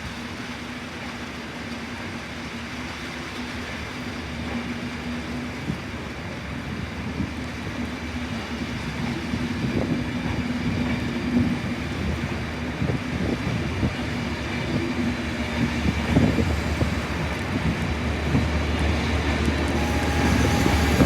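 A train running on the line: a steady engine hum and rumble growing louder, with wheels clattering over the rail joints from about halfway.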